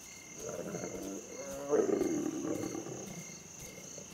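A lion growling in low, rough bouts, loudest about two seconds in and fading out near the end, with crickets trilling steadily behind it.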